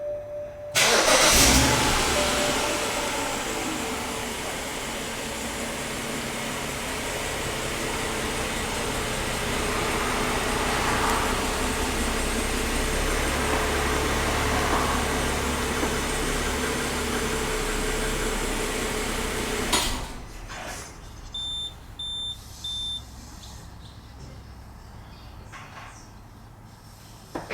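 BMW X6 engine started by remote: it cranks and catches about a second in, idles steadily, then stops abruptly about twenty seconds in. Three short high beeps follow.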